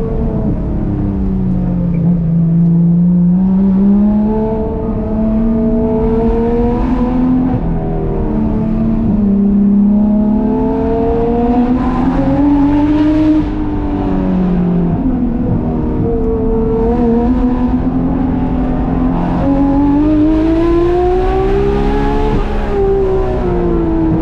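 Porsche 991.2 GT3 RS's naturally aspirated 4.0-litre flat-six, fitted with Dundon street headers and Crack Pipe exhaust, pulling through the gears. The engine note climbs and falls several times as the car accelerates, shifts and backs off.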